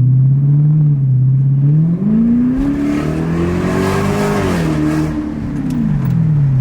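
Lexus SC400's 1UZ 4.0-litre V8 revved through a resonator- and muffler-delete exhaust. The engine pitch climbs from about two seconds in, peaks a little past the middle, and falls back toward idle near the end. It is loud and sounds healthy.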